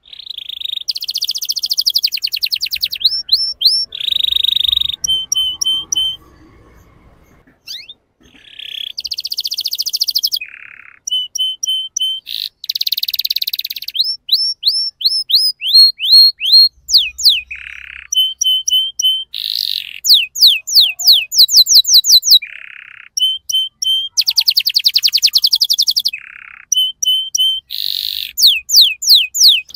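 Domestic canary singing: a long song of fast trills and runs of quick, repeated down-sweeping notes, broken by a brief pause a few seconds in.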